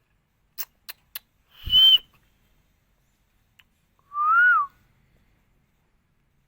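Green parrot whistling: three sharp clicks, then a short high whistle over a harsh burst at about 1.5 s, then a clearer whistle that rises and falls, near the middle.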